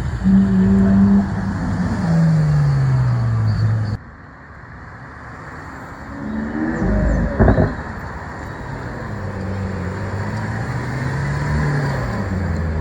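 Car engines revving and falling back as cars drive past. The sound drops off abruptly about four seconds in, a short loud rev comes near the middle, and engine notes rise and fall again towards the end.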